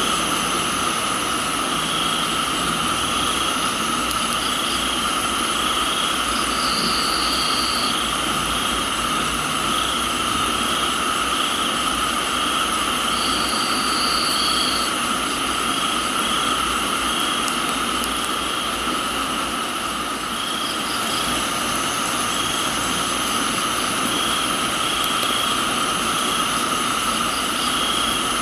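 Steady rain hiss with crickets and other insects chirping in a continuous pulsing chorus; a higher insect trill joins for a second or two about a quarter of the way in, again around the middle, and at the very end.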